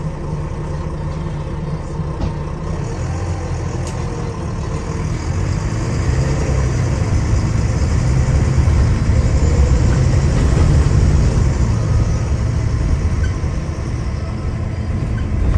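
Diesel engine of a Volvo B9TL double-decker bus heard from inside the cabin, pulling under acceleration: the engine note grows louder from about four seconds in, is loudest around the middle, then eases off near the end.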